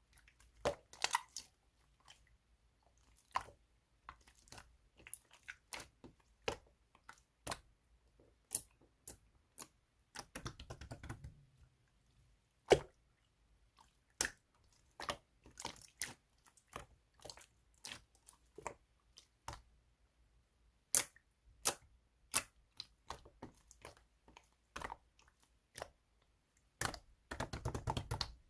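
Chewy slime being squeezed and pressed by hand, giving scattered sharp pops and clicks, with two denser runs of small pops about ten seconds in and near the end.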